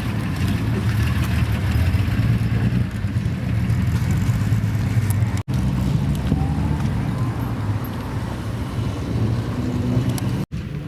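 Car engines running at low revs through loud exhausts, a steady low drone that drops out abruptly twice for a split second.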